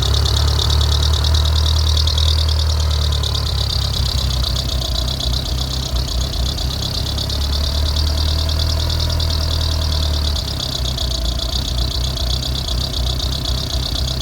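2G DSM engine idling with a steady high-pitched belt squeal over the engine hum, which the owner takes to be coming from the timing belt.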